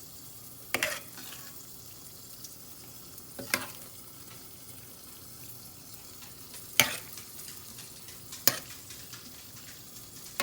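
A spoon stirring thick chili in a pot, knocking sharply against the pot four times over a faint steady hiss.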